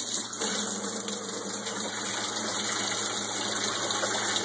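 Shower head spraying water with a steady hiss, over the steady hum of the boat's electric water pump running.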